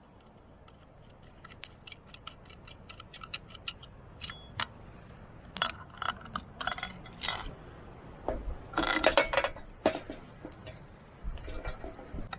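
Small objects being handled: a string of short clicks and light knocks, getting busier, with a dense clatter about nine seconds in.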